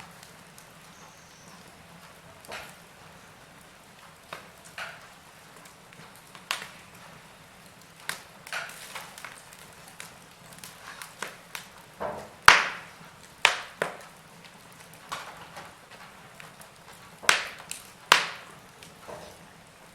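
Logs burning in a fireplace, crackling with irregular sharp pops and snaps over a faint steady hiss. The loudest snaps come about halfway through and again near the end.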